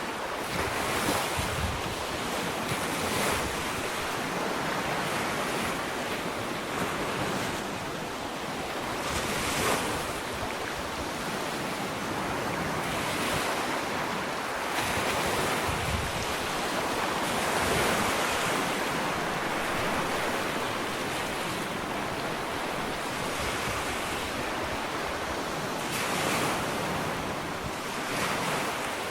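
Ocean waves washing onto a sandy beach in a continuous surf hiss that swells and eases as each wave breaks and runs up the sand, with wind on the microphone.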